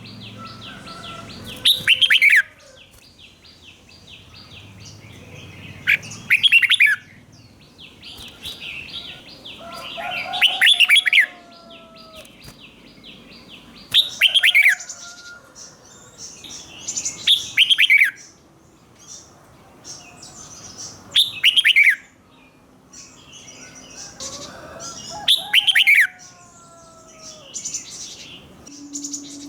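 Red-whiskered bulbul singing: loud, short, falling song phrases repeated about every four seconds, with softer rapid chattering and twittering in between.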